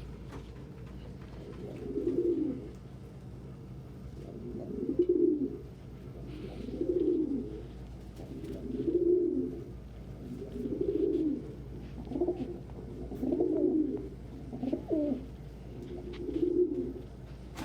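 Domestic pigeon cooing over and over, a low coo about every one and a half to two seconds, over a steady low hum.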